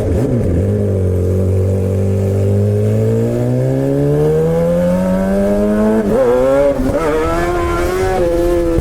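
Suzuki GSX-R 600 (K7) inline-four through a straight-piped M4 exhaust with no catalytic converter, heard from the rider's seat while riding. The revs climb steadily for about six seconds, the note breaks twice in quick succession, and then it settles at a steady pitch.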